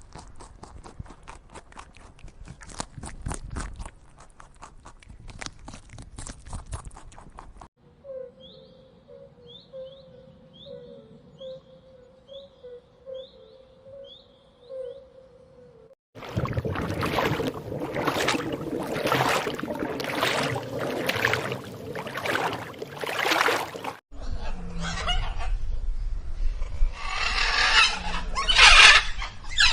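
A string of short animal-call recordings spliced back to back, with abrupt changes at about 8, 16 and 24 seconds in; the calls are mostly of the bird and poultry kind. One segment carries a series of short high chirps over a steady hum.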